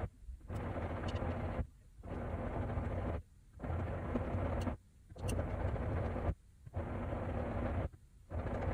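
Haier HW90-BP14636 front-loading washing machine in its wash phase: the belt-driven drum turns the laundry through the wash water in a steady rhythm of swishing, rumbling surges about every one and a half seconds, each broken by a brief gap.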